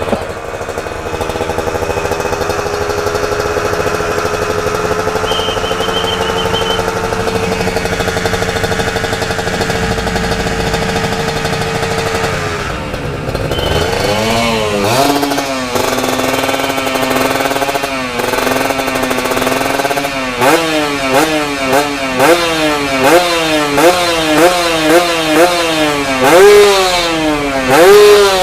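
Two-stroke motorcycle engine breathing through a Corse Project racing exhaust with an AHU expansion chamber. It is held at a steady speed for about twelve seconds and drops back, then is revved in repeated throttle blips that fall back to idle. The blips come quicker and closer together toward the end, about two a second.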